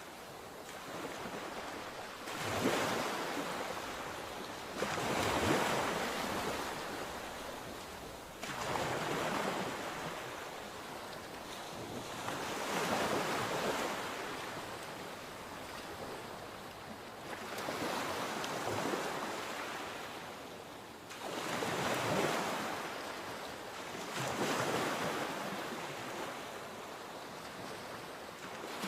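Sea waves breaking, the surf swelling and fading again about every three to four seconds.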